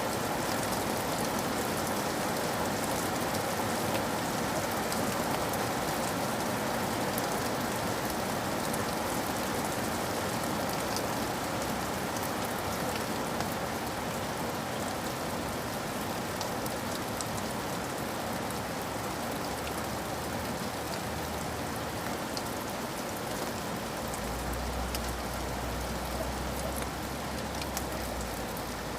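Steady rain falling on a surface, a dense even hiss with scattered drop ticks. A low rumble comes in near the end.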